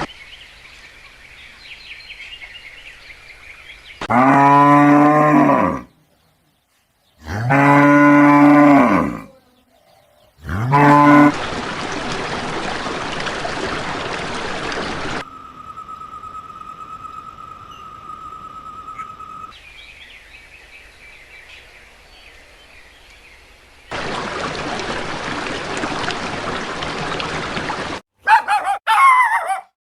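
Cow mooing three times: two long moos of about two seconds each and a shorter third, set among stretches of steady background noise.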